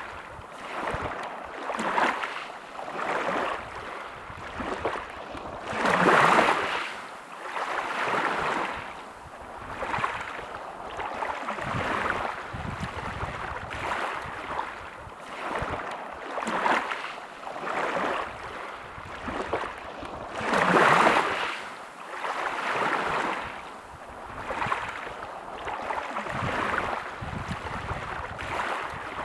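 Sea waves washing onto a beach: a noisy rush that swells and fades every couple of seconds, with two louder breakers, one about six seconds in and one about twenty-one seconds in.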